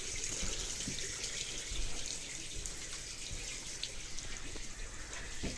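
Water running steadily from a bathroom tap, a continuous hiss, with a few faint knocks.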